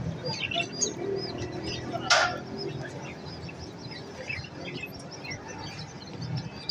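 Many small cage birds chirping at once in quick, overlapping high chirps, with a single sharp knock about two seconds in.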